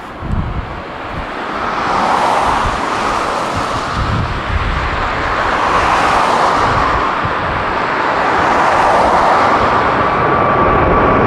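Boeing 777-300ER's twin GE90-115B turbofans at takeoff thrust, a loud jet noise that swells and keeps growing, with a steady high whine coming in near the end. Wind buffets the microphone with low rumbles.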